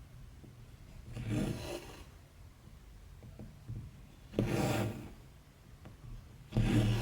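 Embroidery thread pulled through cross-stitch fabric, three rasping swishes each about half a second long, a few seconds apart, with a few faint clicks between them.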